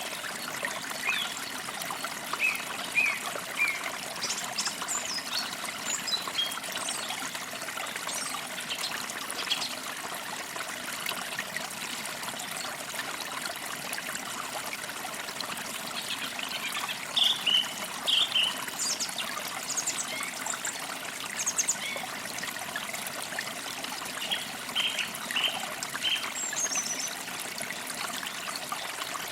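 A small forest creek trickling and splashing over stones with a steady rush, while songbirds chirp and trill in short scattered phrases throughout.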